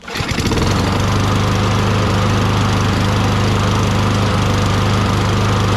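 Toro Recycler's 6.5 HP Tecumseh lawn mower engine catching on a recoil pull and running steadily at an even pitch. Its firing up on its own is a sign that the carburetor is decently clean and the primer circuit works.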